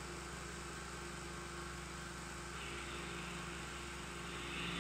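Steady low hum and hiss of an old 16mm optical film soundtrack, with no other distinct sound.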